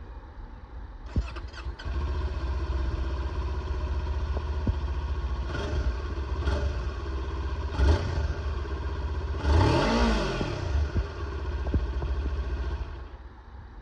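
Kawasaki Ninja 400/Z400 parallel-twin on its stock OEM exhaust, started about a second in and left idling. The throttle is blipped a few times, then revved once with a rise and fall in pitch. The engine is shut off near the end.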